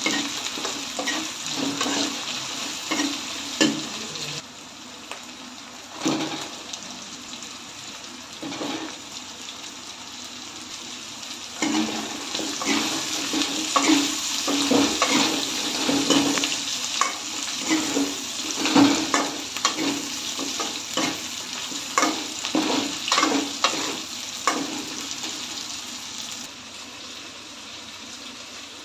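Onions, green chillies and potato chunks sizzling in oil in a metal wok, with a spatula repeatedly scraping and knocking against the pan as they are stirred. The stirring pauses for several seconds after about four seconds, leaving the sizzle alone, then picks up again.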